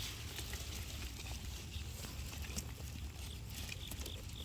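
Scattered small clicks and rustles of dry straw and sweet potato vines being handled, with a cricket chirping a few times near the end.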